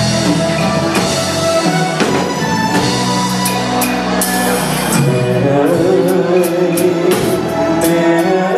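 Live band playing the accompaniment of a slow Vietnamese ballad, with sustained melody lines over drums and repeated cymbal strokes.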